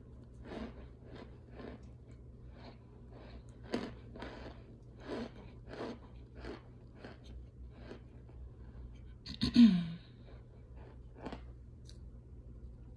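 Close-up chewing of dry, crunchy white chalk chunks: crunches about twice a second, steady for the first eight seconds and then more spread out. About nine and a half seconds in comes one short, loud vocal sound like a cough.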